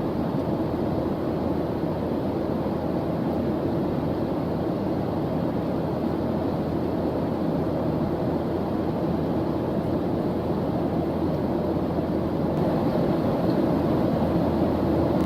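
Steady ambient noise track played as study background, deep and even with no breaks or events.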